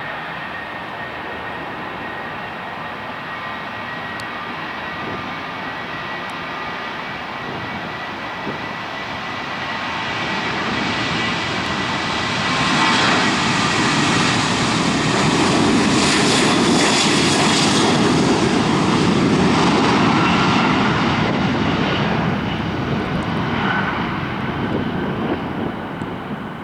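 Boeing 737-800 airliner's CFM56 jet engines: a steady high whine at first, then a broad rush of engine noise that builds to a peak past the middle as the jet passes close, and eases off near the end.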